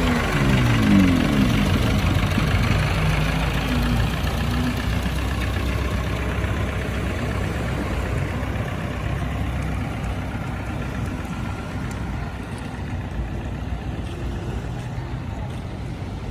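Diesel engine of a vehicle hauling boats up the beach, with its pitch dropping off a rev at the start, then running steadily and slowly fading away.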